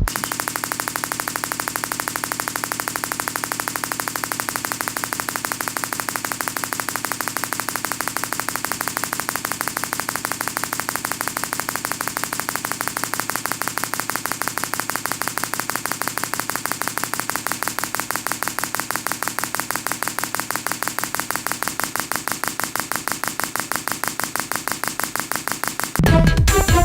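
V-twin (V2) engine running at a steady speed, a fast, even train of firing pulses. Its firing rhythm shifts gradually every few seconds as the angle between the two cylinders is changed.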